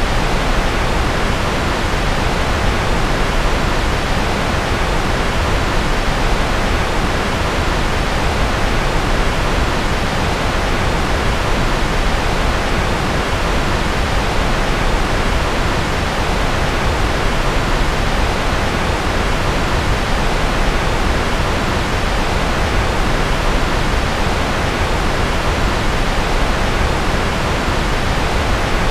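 Generated white noise: a constant, unchanging hiss, fuller in the low and middle range and softer in the highest pitches.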